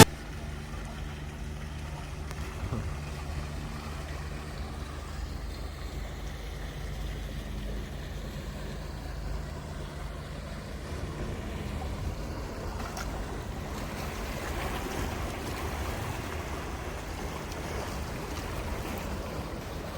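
Boat engine running with a steady low hum, and water rushing past the hull; the water noise grows a little louder after about two-thirds of the way through.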